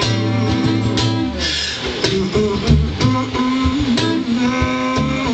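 Live guitar music: a guitar strumming chords in an instrumental passage, with no singing.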